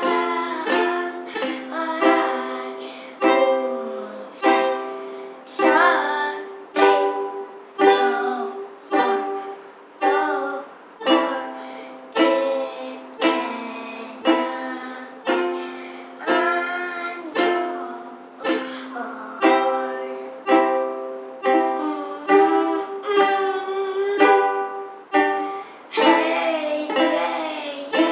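Ukulele strummed in a steady rhythm, with a voice singing along.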